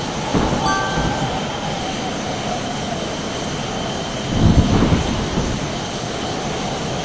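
Jet airliner taking off: a steady engine and airflow roar with a faint tone slowly falling in pitch. A brief chime sounds shortly after the start, and a louder low rumble swells about four and a half seconds in.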